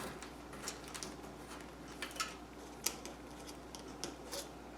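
Faint, scattered light clicks and taps of hands handling small craft pieces, such as strands of pearls, against a tin, a couple of them a little sharper, over a low steady hum.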